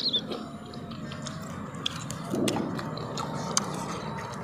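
Close-miked chewing of a mouthful of melon, with scattered wet clicks and smacks and a denser stretch of chewing about halfway through.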